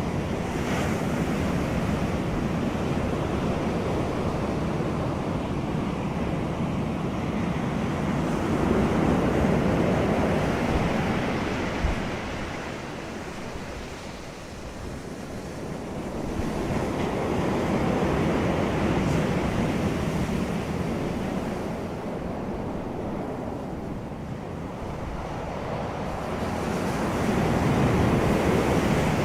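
Wind and surf: a steady rushing noise that swells and eases every several seconds, with wind buffeting the microphone.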